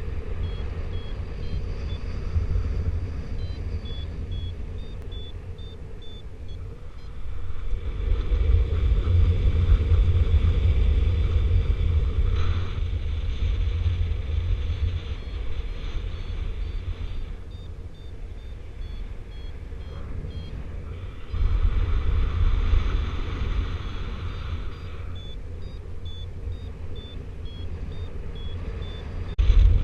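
Paragliding variometer beeping in short tones that step up and down in pitch, in three spells, the climb tone that signals the glider is rising in lift. Wind rumbles heavily on the microphone throughout, strongest about a third of the way in and again past the middle.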